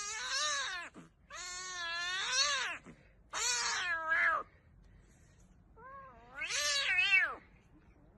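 A cat yowling: four long drawn-out meows, each rising and then falling in pitch, the last after a short pause.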